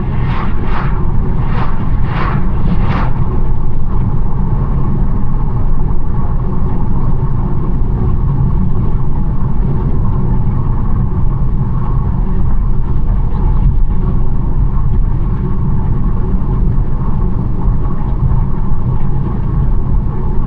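BMW 1 Series on the move: steady low road and tyre rumble with the engine running underneath. About five brief hissing bursts come in the first three seconds.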